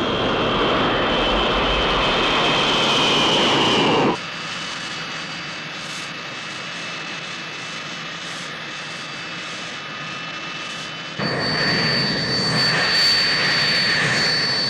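Jet aircraft engines: a loud engine noise with a slowly falling whine cuts off abruptly about four seconds in to a quieter steady hiss. About eleven seconds in, a loud jet engine sound with a steady high-pitched whine cuts back in.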